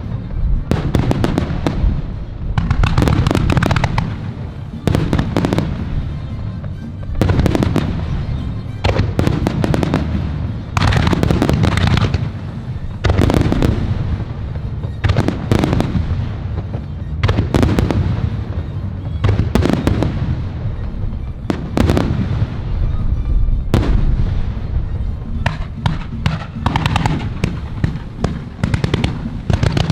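Fireworks finale: large aerial shells bursting in quick succession, a heavy boom about every two seconds over a continuous low rumble, with crackling from the shells between the booms.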